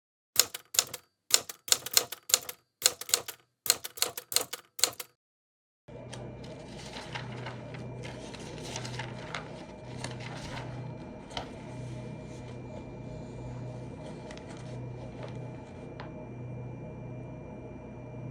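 Sharp typewriter-like keystrokes, clacking in quick clusters for about five seconds, with dead silence between and after. About six seconds in, steady room tone starts, with a low pulsing hum and faint soft noises.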